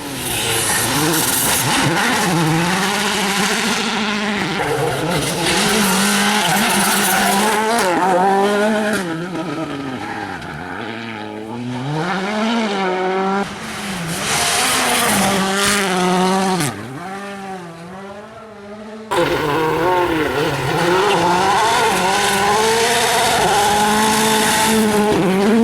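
VW Polo R WRC rally car's 1.6-litre turbocharged four-cylinder engine revving hard, pitch climbing and dropping again and again as it works through the gears and lifts off. A sudden jump in level near the end marks a switch to another pass.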